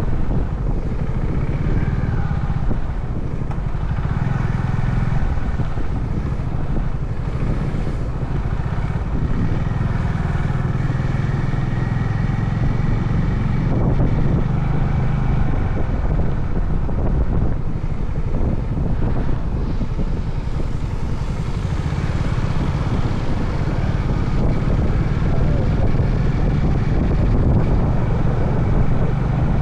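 Honda CB350 Highness motorcycle's single-cylinder engine running steadily while riding, its revs drifting up and down a little.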